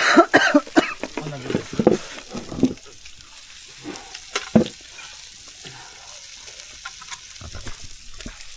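Wood fire crackling with pork sekuwa sizzling over the embers: irregular sharp pops and clicks over a steady hiss, busier in the first few seconds.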